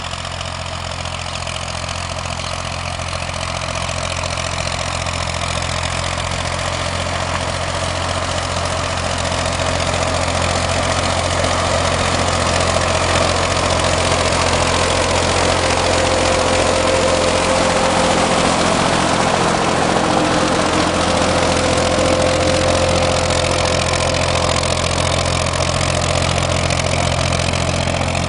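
Massey Ferguson tractor's diesel engine running steadily, growing gradually louder over the first dozen seconds or so.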